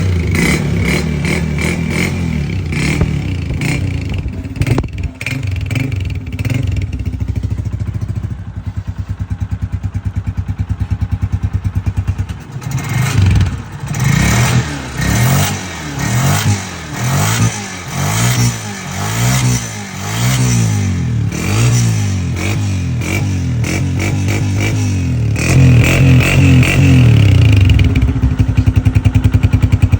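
Motorcycle engine running, first at a steady speed, then revved up and down again and again, about once a second, for several seconds. Near the end it settles into a steady, louder run.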